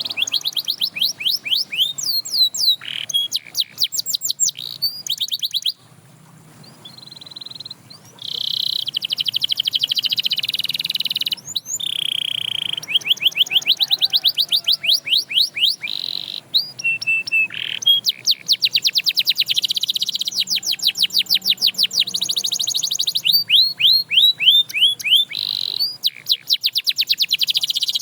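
Domestic canary singing: fast trills of rapidly repeated sweeping notes alternating with long, held whistled tones, with a short quieter pause about six seconds in.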